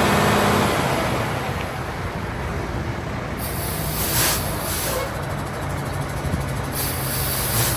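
A Cat CT13 diesel engine in a dump truck running steadily, with short bursts of compressed air hissing out about halfway through and again near the end.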